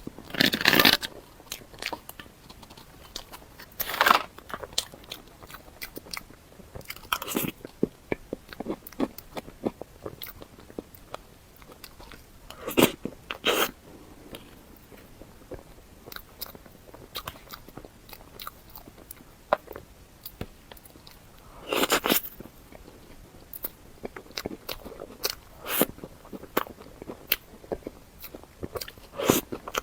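Close-miked eating: crunchy bites and chewing, with louder bites every few seconds and small clicky mouth sounds between them.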